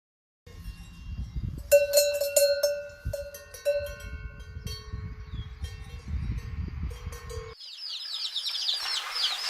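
Metal bells clanking and ringing, struck again and again, over a low rumble. About seven and a half seconds in, this gives way to rapid, high, falling bird chirps, many in quick succession.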